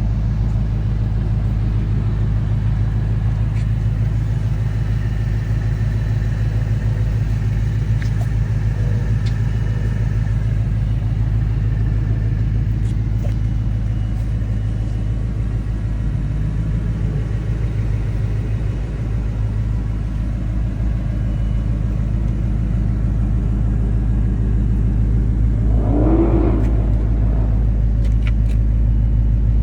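Motor vehicle running with a steady low rumble. A short wavering higher sound rises over it near the end.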